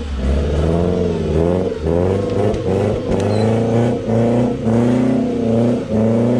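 Off-road 4x4's engine revving hard in repeated surges, about eight in a row, its pitch climbing and dropping with each blip of throttle as the vehicle is driven under power through a difficult trail section.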